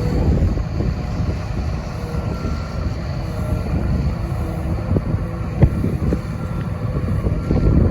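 Caterpillar 336FL hydraulic excavator's diesel engine running steadily, with a sharp knock about five and a half seconds in.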